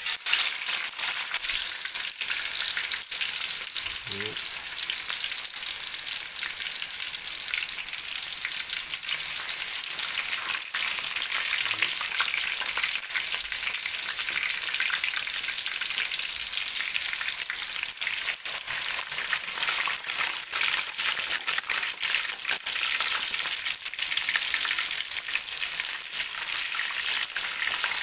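Raw chicken pieces frying in hot oil in a wok, sizzling and crackling steadily. The sizzle starts abruptly as the first piece goes into the oil.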